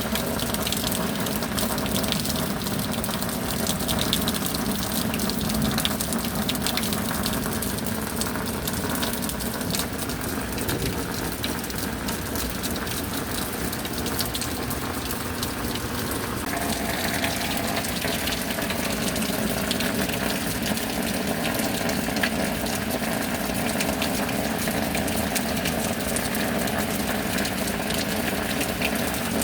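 Heavy rain pouring and gushing steadily, with a faint steady hum under it that changes pitch a little over halfway through.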